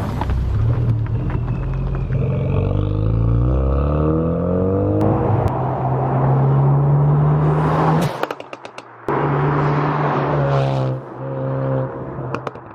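Ford Focus RS's turbocharged four-cylinder engine accelerating, its pitch climbing for the first few seconds before it runs steady and loud. The engine sound drops away abruptly about eight seconds in, returns a second later, and drops again near the end.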